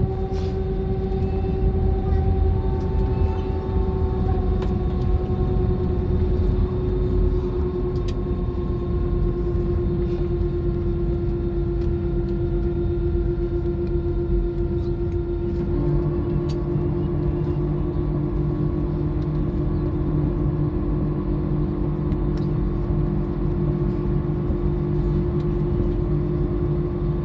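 Airbus A320 cabin noise after landing: a steady low rumble with the engines' whine tones, the main tone drifting slightly lower. About 16 seconds in the tone pattern shifts and a new low hum appears, with a few faint clicks scattered through.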